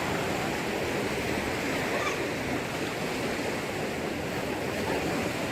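Flood water rushing and churning, a steady noise without breaks.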